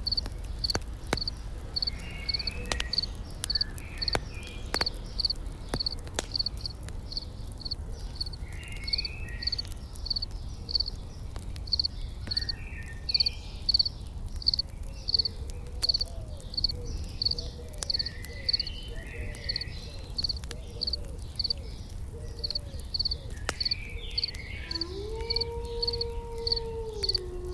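Layered campfire ambience: a crackling campfire with scattered sharp pops over a low rumble, an insect chirping steadily about twice a second, and bursts of small bird chirps. Near the end a long smooth tone rises, holds for about two seconds and falls away.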